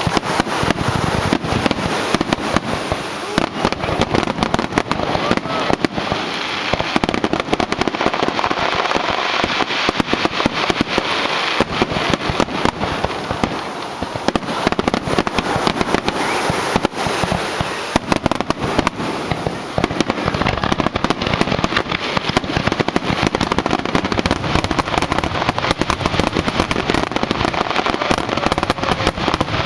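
Fireworks finale: a continuous barrage of aerial shell bursts and crackling, with many bangs a second and no pause.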